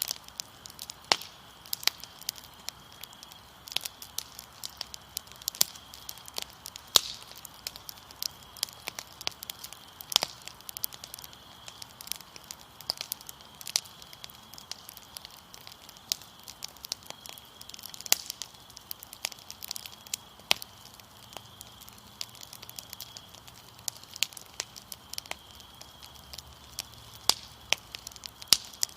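Wood fire crackling with irregular sharp pops, several a second, over a steady high trill of crickets.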